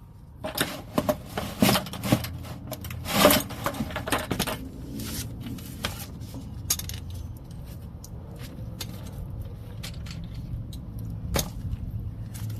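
Irregular metallic clicks, knocks and scrapes of a ratchet working on a Sprinter van's oil pan drain plug, thickest in the first few seconds and then sparser over a steady low rumble.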